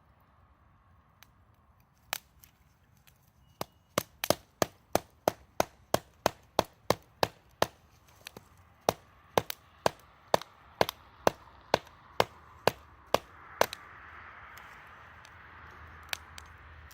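Rapid, regular blows on wood, about two a second, as when splitting kindling with a hatchet or a baton, with a short pause about halfway through. A steady hiss comes up near the end.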